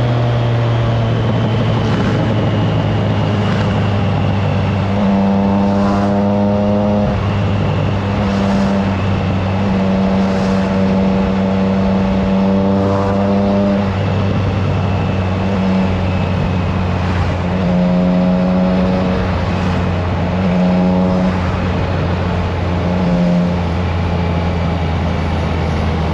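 Triumph Trident 660's three-cylinder engine running through a Fire Tong aftermarket exhaust while being ridden. The note rises and falls several times as the bike accelerates and shifts gear, with a few swells of revs about a third of the way in, near the middle and later on.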